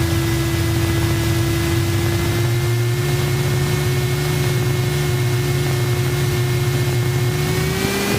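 Cessna 172's engine and propeller running at low taxi power: a steady drone over a hiss. The pitch creeps up slightly and rises a step near the end as power is added.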